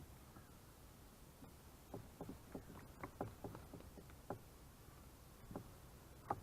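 A bird splashing and moving about in a garden bird bath: a quick, irregular run of about ten soft knocks and splashes over two seconds, then two more near the end.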